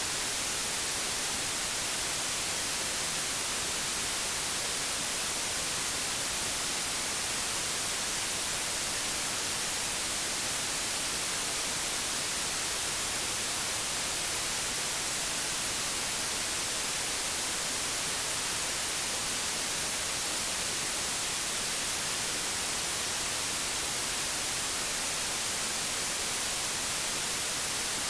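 Steady hiss of analogue television static, even and unchanging, brightest in the treble.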